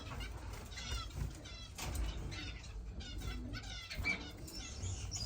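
Caged finches chirping: a busy run of short, high calls, some in quick trilled series.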